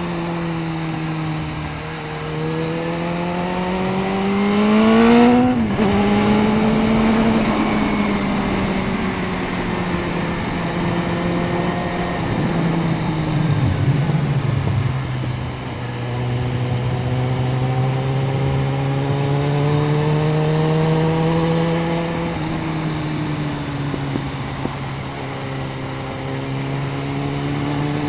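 Suzuki Bandit 650N's inline-four engine under way: it revs up for a few seconds, drops sharply about five seconds in, then pulls on fairly steadily with gentle rises and falls. A steady rushing noise runs underneath.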